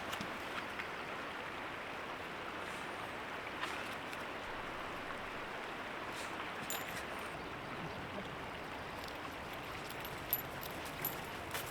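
Creek water running with a steady, even rush, with a few faint clicks near the end.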